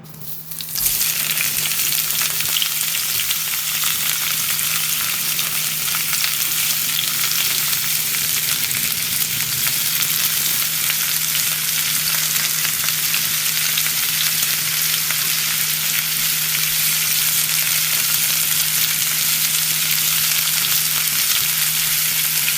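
Sausages frying in a pan: steady, dense sizzling and crackling of hot fat, starting within the first second and holding even throughout, with a faint low hum beneath.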